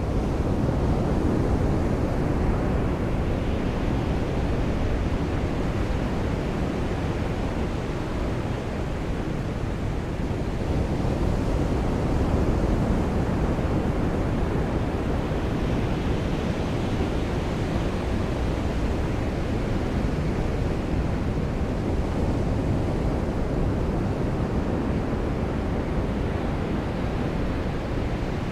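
Surf washing onto a beach under steady rain: a continuous, even hiss with slow swells every several seconds as the waves come in.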